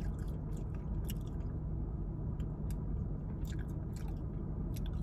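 A person chewing fried food with the mouth closed, close to the microphone, with scattered short crunching clicks over a steady low hum.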